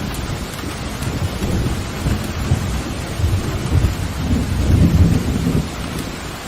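Steady heavy rain with thunder rumbling low underneath, swelling about two-thirds of the way through and easing off near the end.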